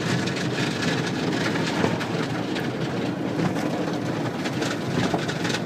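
Automatic car wash brushes and water spray working over the car, heard from inside the cabin: a steady rushing wash of noise peppered with many small slaps and spatters.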